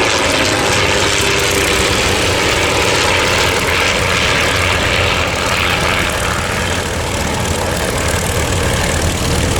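Piston-engined vintage racing aircraft, the de Havilland DH.88 Comet with the Percival Mew Gull on its wing, flying past. Their engines and propellers make a steady drone, with a swell of hiss about four to six seconds in.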